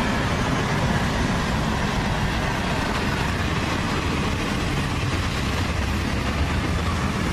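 CSX M706 freight train rolling past at speed: a steady, loud rumble of steel wheels on rail.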